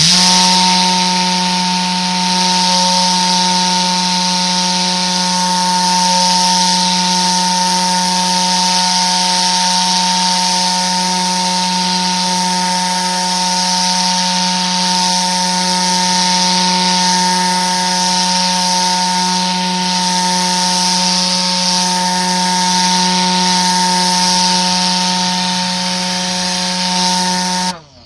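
Tornador compressed-air cleaning gun running: a steady loud hiss of air with a buzzing hum from its whipping tube. It starts abruptly and cuts off suddenly near the end.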